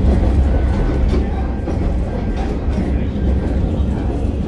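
Steady low rumble of a KiHa 40/47 diesel railcar running along the line, heard from inside the car, with a few faint clicks.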